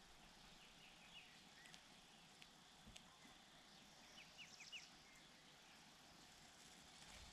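Faint short, high bird chirps in two quick clusters of four or five notes, one just after the start and one about four seconds in, over a steady background hiss with a few faint clicks.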